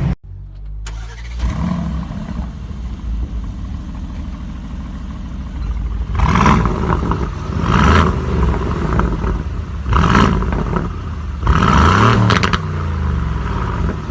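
A supercar engine idling, then revved in about four sharp throttle blips, each rising and falling in pitch, the last one held a little longer.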